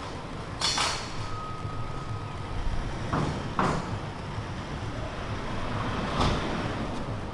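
Street traffic: a steady low rumble of passing road vehicles, broken by three short hissing bursts and a brief thin tone early on.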